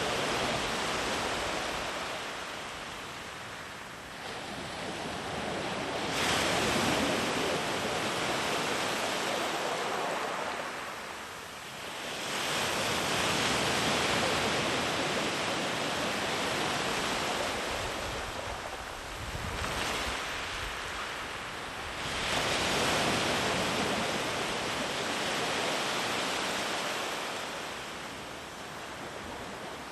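Sea waves breaking and washing up a sandy beach: a steady surf hiss that swells with each new breaker, about every six to eight seconds, and eases as the water runs back.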